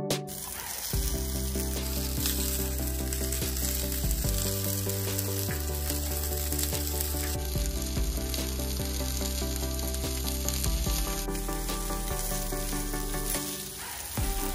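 Stuffed bitter gourds (karela) sizzling steadily as they fry, with background music underneath.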